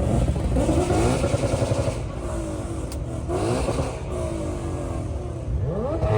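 Performance car engines accelerating hard and revving up, with the pitch climbing and dropping back several times as gears change. Near the end, a rev climbs steeply.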